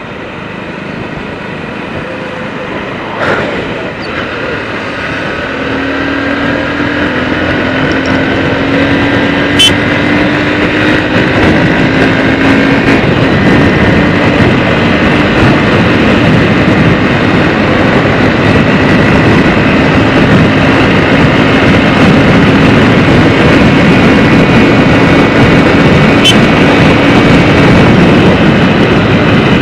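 Motorcycle being ridden, with engine and wind noise rushing over the action camera's microphone, growing steadily louder as speed builds.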